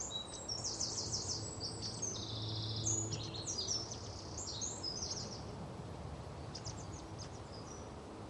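Small birds chirping and singing in quick runs of high notes, busiest in the first five seconds and thinning to a few scattered chirps, over a low steady hum.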